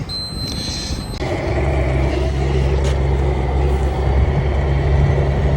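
Motor vehicle engine running with a steady low drone that grows louder about a second in. A high, steady electronic beep tone sounds over the first second.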